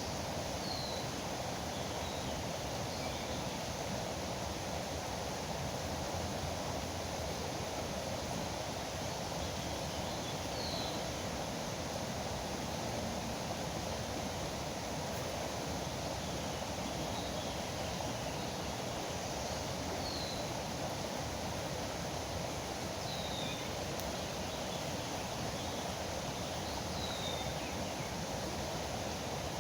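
Steady rush of river water, with five short, high bird chirps spread across it.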